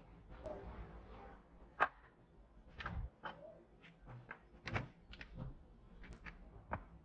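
Irregular small clicks, taps and light knocks of a diecast model car's parts and hand tools being handled, with one sharp click a little under two seconds in.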